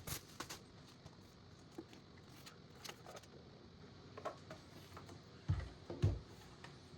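Faint handling of PC parts: scattered light clicks and taps, with two dull thumps about five and a half and six seconds in.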